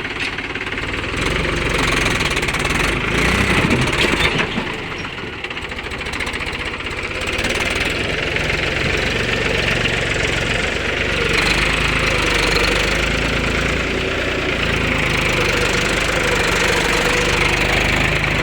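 Mahindra tractor's diesel engine running with a steady knocking beat, louder about three to four seconds in, then easing back and running on steadily.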